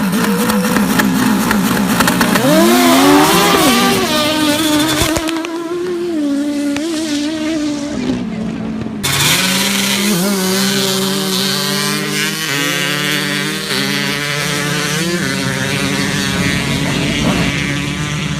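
Drag racing motorcycle engines revving hard, their pitch sweeping up sharply about two to four seconds in and then shifting up and down in steps. The sound changes abruptly twice, around five and nine seconds in.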